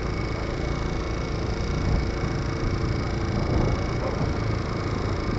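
Steady riding noise from a motorcycle on the move: the engine running under a constant rush of wind and road noise.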